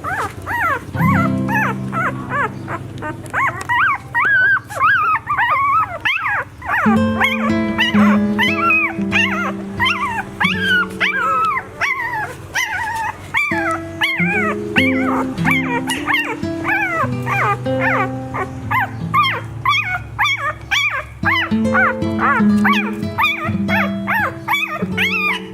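Nine-day-old puppies whining and squealing over and over in quick, high-pitched cries, as they search for their mother. Background music with held, slowly changing notes plays underneath.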